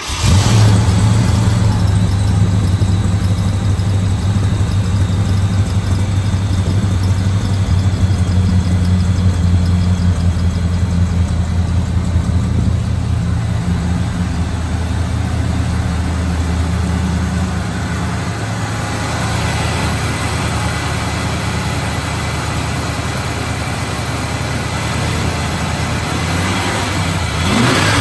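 1964 Mercury Comet Caliente engine catching on a cold start and running at a steady fast idle. Past the two-thirds mark the idle note changes and eases, and near the end it is revved briefly.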